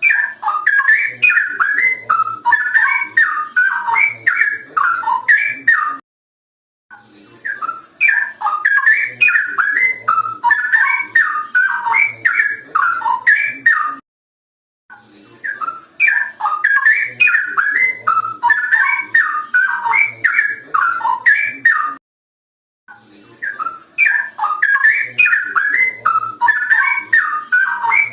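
Straw-headed bulbul (cucak rowo) in full song: loud, rich, warbling whistled phrases, tumbling up and down. The same stretch of song repeats about every eight seconds, with a short silence between repeats.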